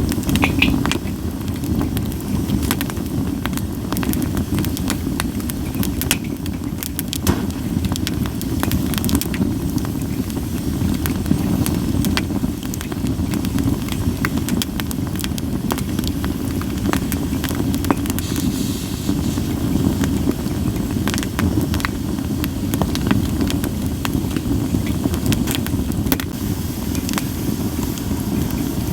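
Campfire of split sawtooth oak (kunugi) logs burning, with frequent sharp, irregular crackles and pops over a steady low rumble.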